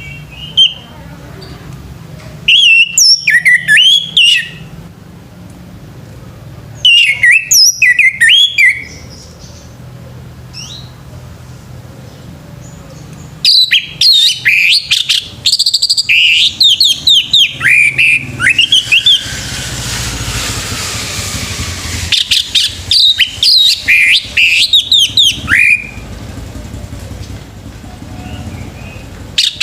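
Male orange-headed thrush singing: loud bursts of rapid, varied whistled phrases, four bursts with pauses between, the longest about five seconds near the middle.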